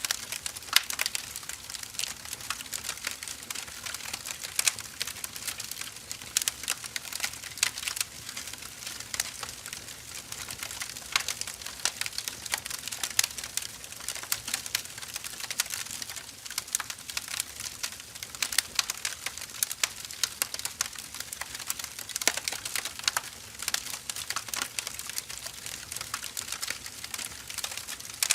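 Firewood burning with a steady, dense crackle of small snaps and pops, the odd louder pop standing out.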